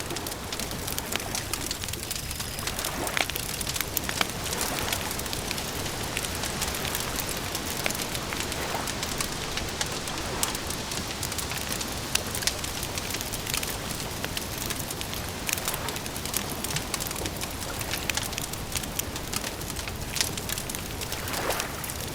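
Wood campfire crackling, with many small irregular pops and snaps over a steady hiss.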